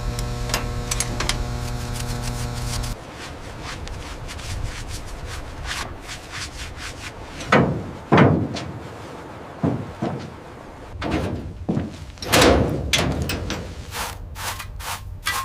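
A steady machine hum that cuts off suddenly about three seconds in, followed by irregular scraping and rubbing strokes, a few of them much louder than the rest.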